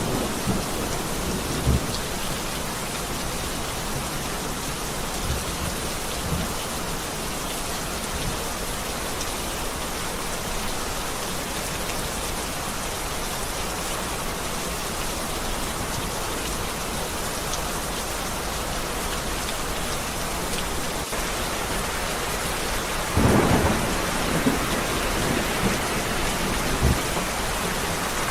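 Heavy rain falling steadily through a thunderstorm. Thunder rumbles near the start and again, louder, about 23 seconds in, with several sharp cracks in the seconds after.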